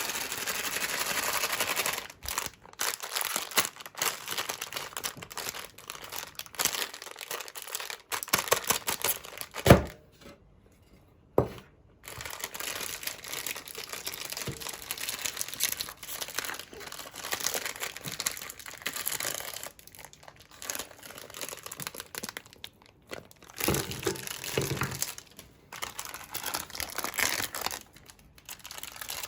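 Plastic packaging crinkling and tearing in irregular bursts as it is handled, with two sharp knocks a little under ten seconds and about eleven seconds in.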